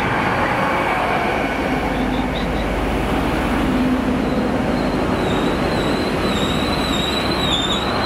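GWR Class 800-series Intercity Express Train running along the platform: a steady rumble of wheels on rail. A high, wavering wheel squeal sets in about halfway through and carries on.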